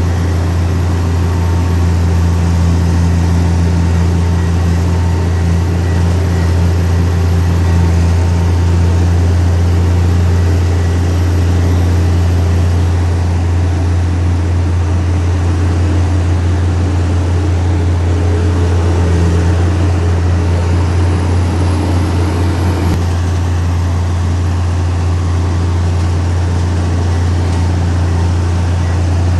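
Heavy diesel earth-moving machinery, a bulldozer or dump truck, running with a loud, steady low engine drone that shifts slightly about two-thirds of the way through.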